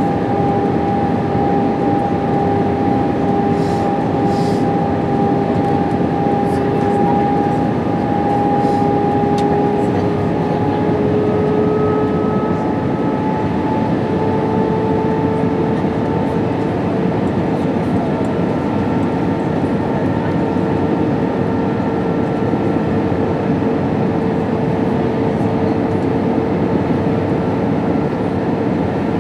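Steady roar of an Airbus A320's IAE V2500 engines and airflow heard inside the passenger cabin, with a hum whose pitch steps slightly higher about halfway through.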